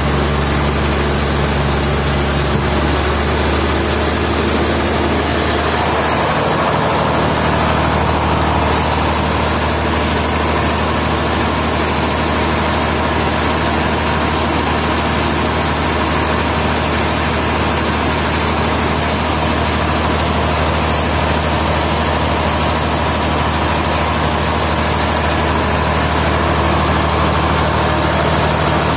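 Sawmill machinery's engine running steadily. Its sound shifts a couple of seconds in, and a higher steady hum joins at about six seconds.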